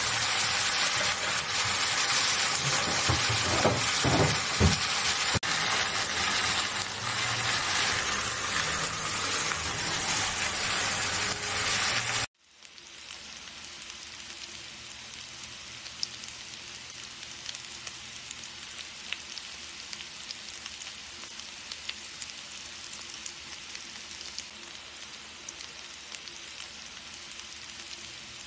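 Food frying in hot oil in a pan: a loud, dense sizzle that cuts off abruptly about twelve seconds in, followed by a quieter, steady sizzle with scattered small pops and crackles.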